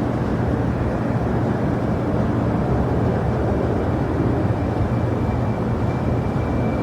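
Jet airliner engines running with a steady rumble, and a faint high whine coming in near the end.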